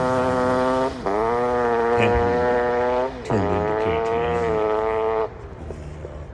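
Two-stroke single-cylinder motorcycle engine revved and held at high revs, dipping briefly twice and climbing again. About five seconds in it drops back to a much quieter run.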